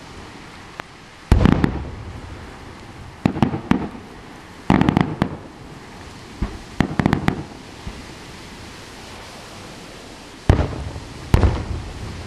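Fireworks display: about six aerial shells bursting at irregular intervals, several followed by quick runs of crackling pops, over a steady hiss.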